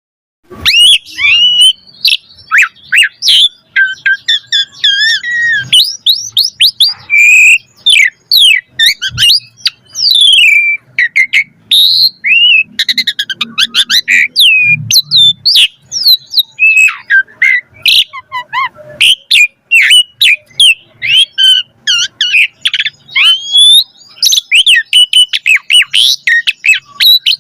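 Asian pied starling (jalak suren) singing a long, fast-changing song of whistles, chirps and harsh squawky notes, with many varied phrases following one another after a brief pause at the start.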